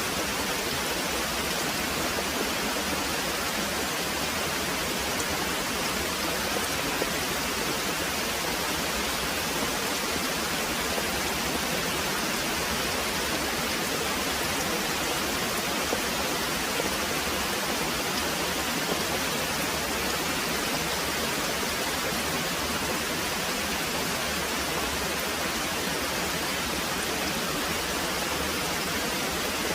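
Very heavy rain pouring steadily: a dense, even hiss with no separate drops or thunder standing out.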